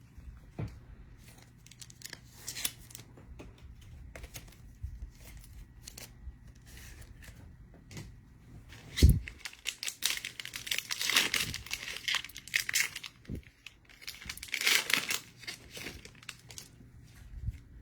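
Foil trading-card pack wrapper being torn open and crinkled, in two crackling stretches past the middle, after a single loud thump about nine seconds in, with light handling clicks before.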